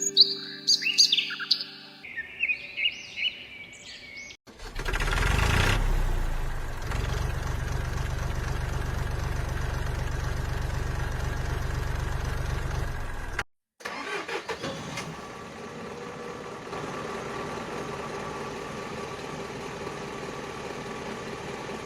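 Birds chirping for about four seconds, then, after an abrupt cut, a vehicle engine starts and runs steadily. A second abrupt cut about halfway through leads into a quieter engine running.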